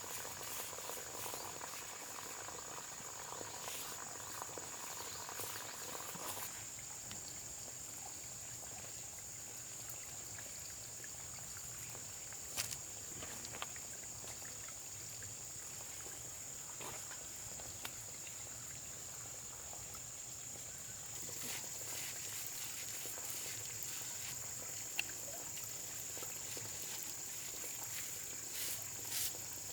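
Insects chirring in a steady high-pitched drone, with scattered light clicks and taps. A soft mid-pitched noise stops about six seconds in.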